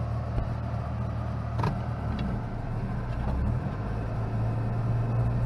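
1996 Mitsubishi Pajero Mini's small 660 cc four-cylinder engine running as the vehicle creeps along at low speed, heard from inside the cabin. It is a steady low hum that grows slightly louder toward the end, with a couple of faint clicks in the first half.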